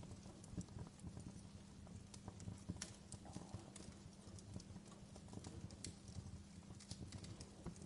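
Wood fire crackling: irregular sharp pops and snaps, scattered a few to the second, over a low rumble of burning logs.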